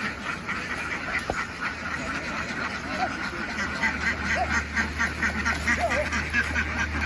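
A large flock of ducks quacking continuously, many calls overlapping. A low steady hum comes in about four seconds in.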